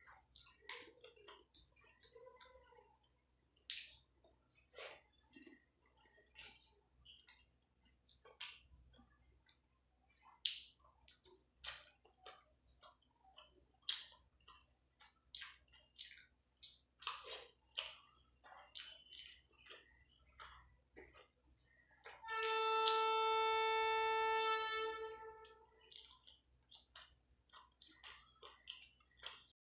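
Close-up mouth sounds of eating rice and chicken curry by hand: a string of short wet chewing smacks and clicks. About two-thirds of the way through, a steady high tone sounds for about three and a half seconds, louder than the eating.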